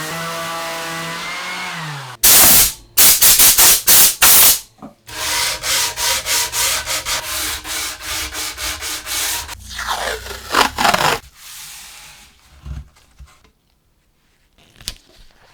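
A small electric motor runs steadily, then winds down in pitch about two seconds in. It is followed by hand-sanding strokes on a part being cleaned of rust: loud and fast at first, then a steady back-and-forth at about three strokes a second. The strokes stop about eleven seconds in, and a couple of faint knocks follow.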